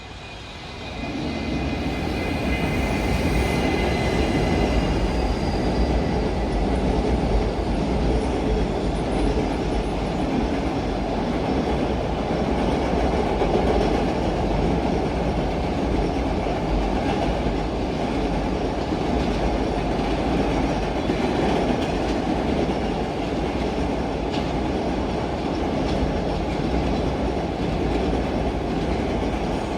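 A long freight train passing on the Sanyo Main Line, its wheels rumbling and clacking over the rail joints steadily for about half a minute. A faint high-pitched wheel squeal sounds over the first few seconds.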